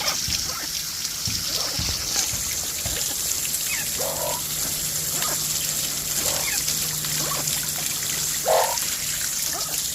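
Garden hose spraying water steadily over aviary cages, with a few short squawks from parrots, the loudest about 8.5 seconds in.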